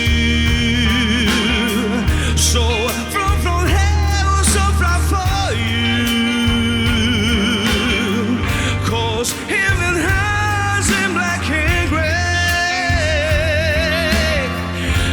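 Live rock band playing a ballad, with drums, bass and keyboards under long held, wavering melodic notes from a voice or lead instrument.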